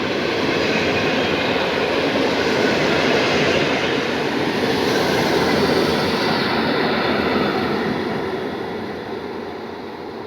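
Passenger train passing on rails, a steady rush of wheels and cars that is loudest for the first several seconds and then fades as it moves away.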